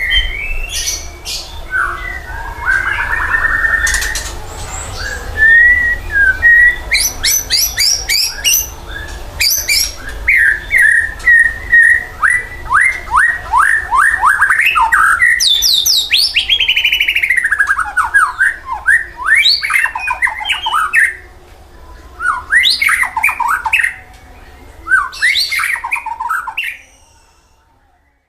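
A songbird singing vigorously and without pause, in the full voice that bird keepers call gacor. Its song is loud and varied: whistled notes, runs of fast repeated notes and rapid trills, with short breaks near the end before it stops.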